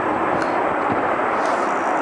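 Jet airliner engines running, a loud steady roar of engine noise without a clear tone.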